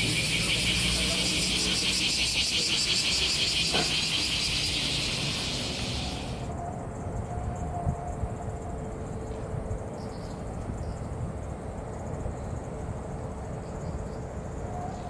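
Cicadas buzzing loudly, a dense, rapidly pulsing chorus that cuts off suddenly about six and a half seconds in, leaving quieter background noise.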